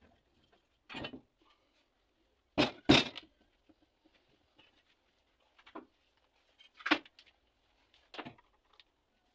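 Scattered knocks and clatters, about six in all, with the loudest two in quick succession about three seconds in.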